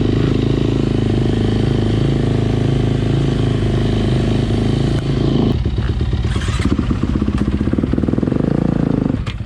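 Dirt bike engine running steadily at raised revs, then dropping to a lower, choppier running about five and a half seconds in.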